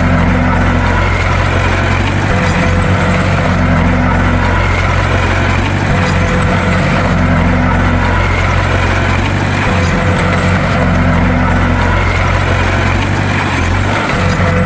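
Bulldozer's diesel engine running steadily with a deep drone, and a higher tone that swells and fades about every three and a half seconds.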